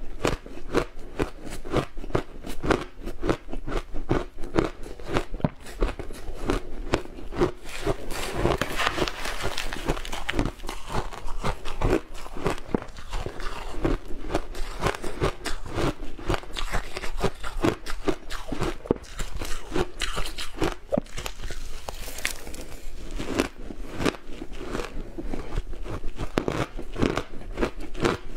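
Close-miked biting and chewing of crunchy food, a rapid, continuous run of sharp crunches.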